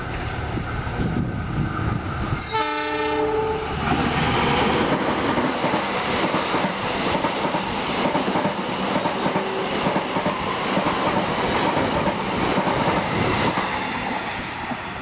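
Turangga express passenger train passing close by at speed without stopping. The locomotive gives a short horn blast about two and a half seconds in, then the carriages rush past with steady wheel clatter for about ten seconds.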